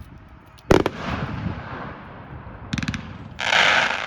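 Consumer firework cake firing: one loud shot with an echoing tail about a second in, a quick cluster of crackling pops near three seconds, then a loud hiss lasting about half a second near the end.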